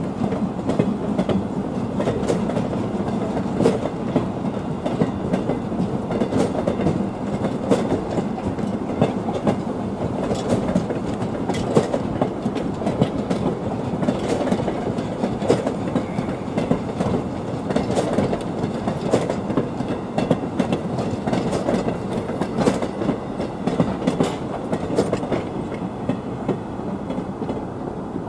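A train of passenger coaches rolling past, wheels clattering steadily over the rail joints with many sharp clicks, easing off near the end as the last coach moves away.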